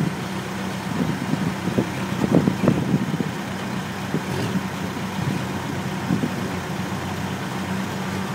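Case backhoe's diesel engine running steadily at low revs. Several short knocks or clanks come about one to three seconds in.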